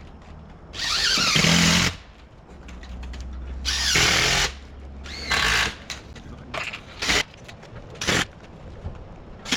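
Handheld power drill running in short bursts: two of about a second, then several shorter ones, some with a whine that slides in pitch.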